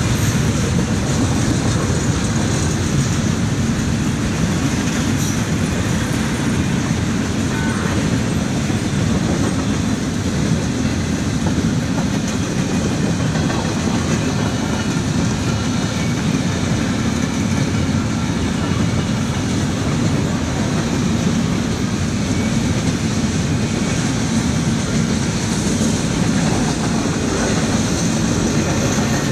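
A train's cars rolling steadily past on the rails, a continuous, even rumble with no pauses or changes.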